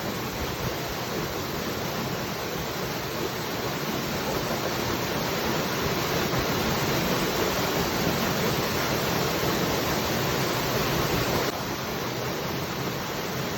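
Waterfall rushing steadily; the level swells slightly, then drops suddenly about eleven seconds in.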